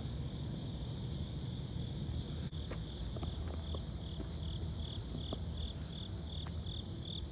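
Insects, crickets or the like, keeping up a steady high-pitched trill that turns into a regular chirp pulsing about two or three times a second from about halfway in, over a low outdoor rumble.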